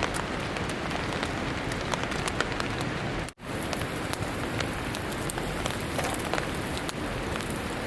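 Steady rain falling, with many separate drops ticking sharply on a nearby surface. The sound cuts out for an instant a little over three seconds in.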